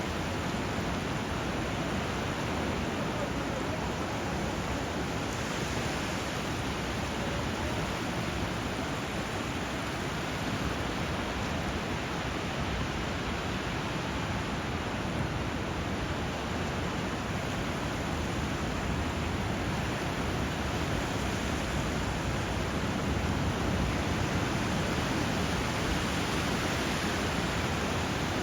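Steady rushing of flowing water where a river runs into the sea, an even hiss with no distinct waves or birdsong standing out, a little louder about three-quarters of the way through.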